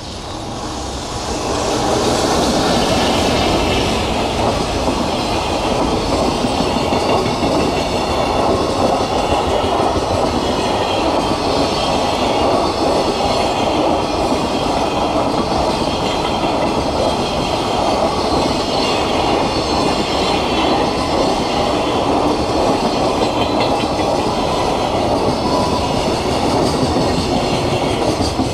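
JR Freight EF210 electric locomotive passing close, followed by a long string of mostly empty container flat wagons rolling by on steel wheels over the rails. The sound swells over the first two seconds as the locomotive arrives, then holds loud and steady as the wagons go past.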